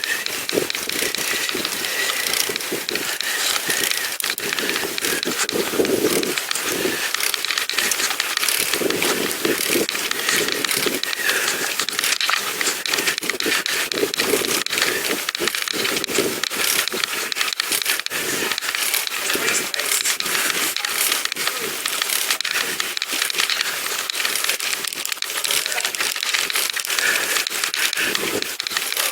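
Steady crackling, rustling ride noise from a pedal bike in motion, picked up by the rider's camera microphone.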